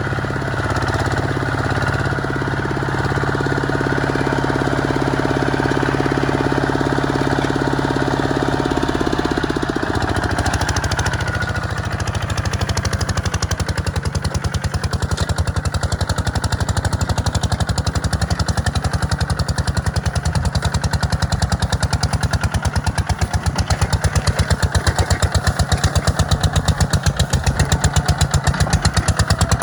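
Kubota tractor's diesel engine running steadily. About a third of the way through, its note drops and turns into a fast, even chugging pulse that grows louder toward the end.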